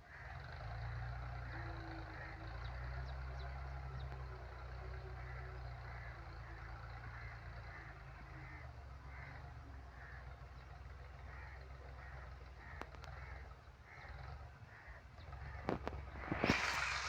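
Tractor engine running with a steady low rumble that fades out about three-quarters of the way through, while a bird calls over and over. Loud crow caws come near the end.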